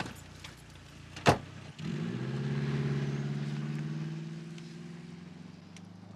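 A sharp bang, then a car engine starting up and pulling away, its sound swelling and then fading as the car drives off.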